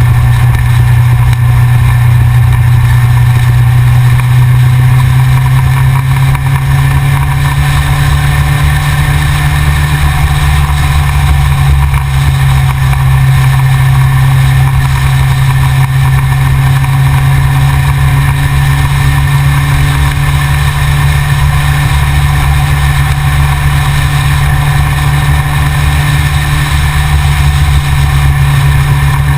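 Yamaha XJR motorcycle's inline-four engine running steadily and loudly, picked up by a camera mounted on the front of the bike.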